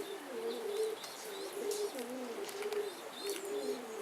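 Pigeons cooing over and over, low rolling notes that dip and rise, with faint high chirps from small birds on top.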